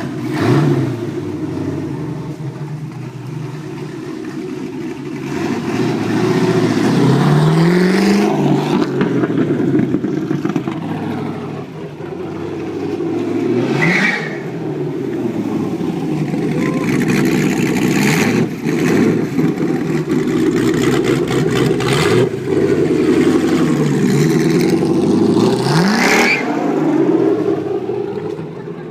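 LS3 V8 running through open pipes with no mufflers, pulling hard with its pitch rising three times and dropping back after each rise.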